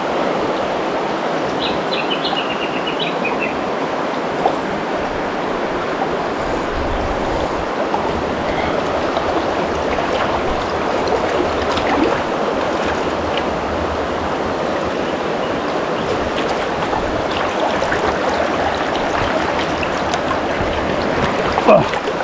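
Small mountain stream running steadily over rocks, a continuous rushing of water.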